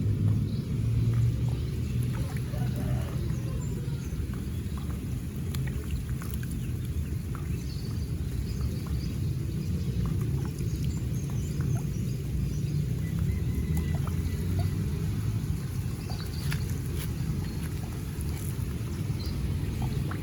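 Steady rush of water flowing in a pool's outflow channel, with scattered faint clicks.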